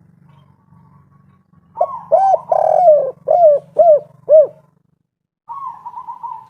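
Spotted dove cooing: a run of about six short, arched coo notes starting about two seconds in, followed near the end by a quicker, higher rattling phrase. A faint low hum runs beneath the first part and stops just after the coos.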